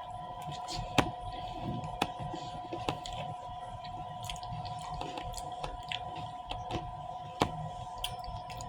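Close-miked chewing of fruit: wet mouth noises, lip smacks and a few sharp clicks. A steady two-note hum runs underneath.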